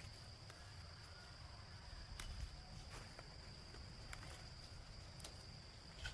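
Faint steady high-pitched insect drone, a single unbroken tone, with a few faint clicks scattered through it.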